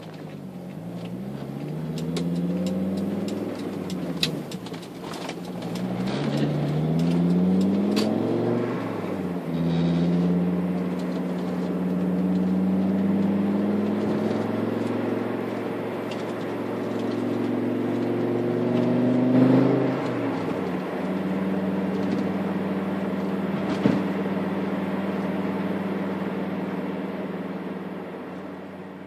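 Volvo 960's turbocharged 2.3-litre five-cylinder engine through a 3-inch exhaust with only a middle muffler, accelerating through several gears with the pitch rising and dropping back at each shift, then holding a steady note. It grows louder at the start and fades away near the end, with a few sharp cracks along the way.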